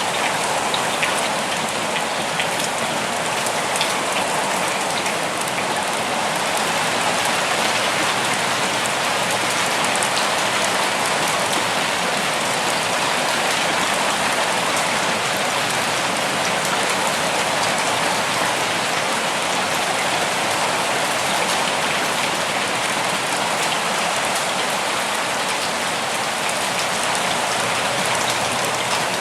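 Steady rain falling, an even hiss of many drops with faint individual drop taps here and there.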